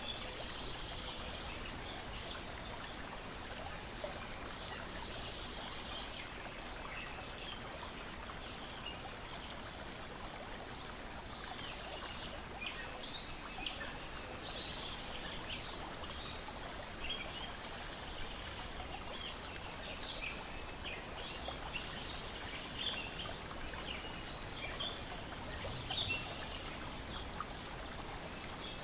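Lake water lapping and splashing in a steady wash, with birds chirping and calling over it throughout.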